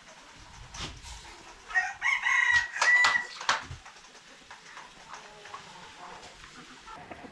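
A rooster crowing once, about two seconds in, for a second and a half or so, with chickens clucking quietly around it.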